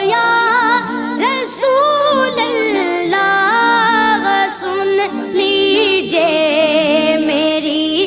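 A high female or child voice singing a devotional Urdu song (naat) in long, ornamented phrases, the pitch wavering and sliding between held notes.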